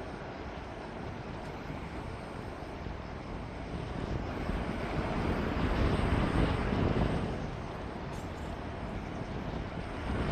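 Wind blowing outdoors with a low rumble, gusting up to a peak around the middle and then easing off.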